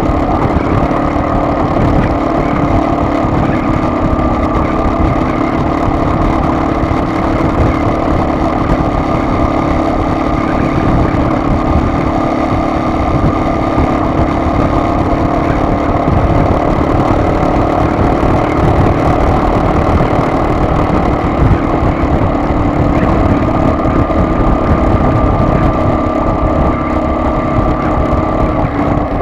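Car on the move: a steady engine drone with road and tyre rumble, even throughout.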